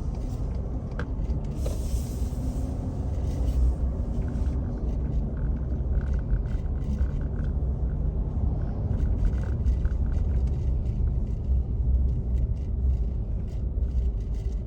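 A car driving on a road: a steady low rumble of engine and tyre noise.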